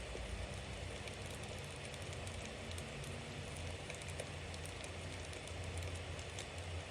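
Bonfire burning: a steady hiss of flames with frequent small crackles and pops of burning wood over a low rumble.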